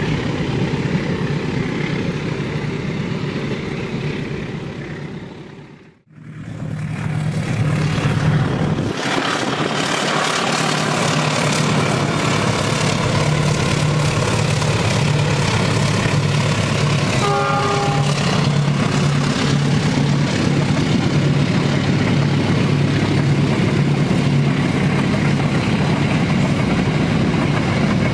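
A passing passenger train's running noise fades out about six seconds in. Then a diesel locomotive hauling passenger coaches goes by with a steady low engine hum and rolling wheel noise, and a short horn-like toot comes about two-thirds of the way through.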